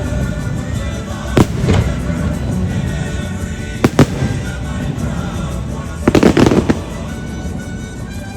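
Fireworks going off over show music: a single bang about a second and a half in, two sharp bangs close together near four seconds, then a rapid crackling flurry a little after six seconds, the loudest part.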